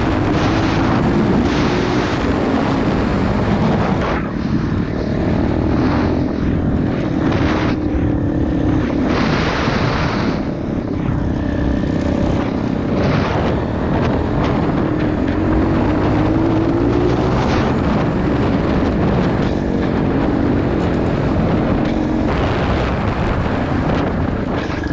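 Pit bike engine running under way, its pitch rising and falling gently as the throttle changes.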